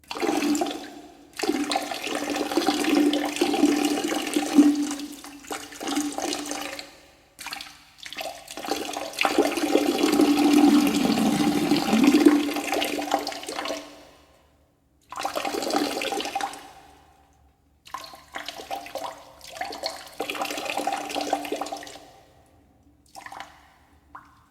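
A person gargling: a held, voiced gurgle of water in the throat, in about six stretches broken by short pauses for breath.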